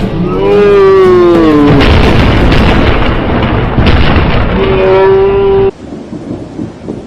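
Very loud, close thunder crash from a nearby lightning strike, with a long falling cry over it near the start and a held cry near the end. It cuts off abruptly a little before the end, leaving fainter crackling thunder.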